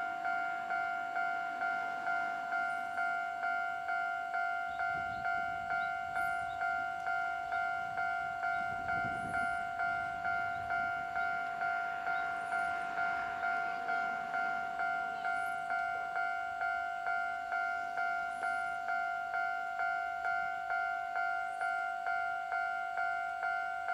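Japanese railway level-crossing warning bell ringing electronically, a two-tone ding repeating about twice a second without pause. Low rumbling rises briefly about five seconds in and again about nine seconds in.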